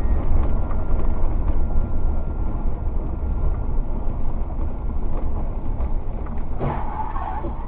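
Steady low road and engine rumble of a car driving, as picked up by a dashcam, with a short sharper noise near the end.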